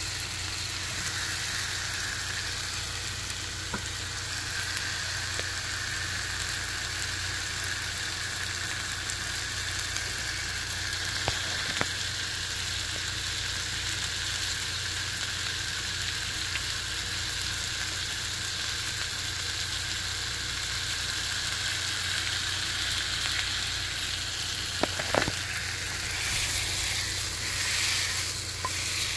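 Sliced onions sizzling steadily in a HexClad hybrid stainless-and-nonstick wok, with a few light clicks of tongs against the pan. Near the end the sizzle grows louder and busier as the pan is shaken and the onions are tossed.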